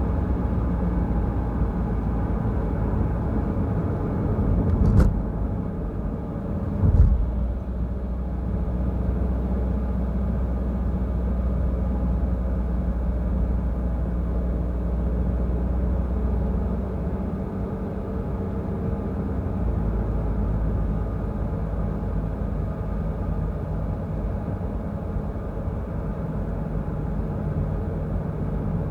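Peugeot Rifter driving on a road, a steady rumble of engine and tyres, with two short sharp thumps about five and seven seconds in.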